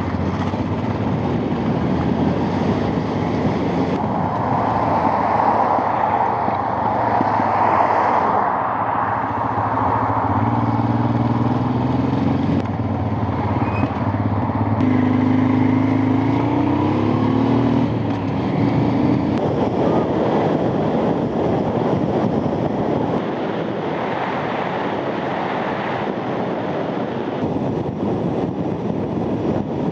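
Motorcycle riding at speed, heard from the rider's helmet: engine note with wind rushing past. The engine pitch climbs in the middle, drops at a gear change about two-thirds of the way in, then settles into steady cruising.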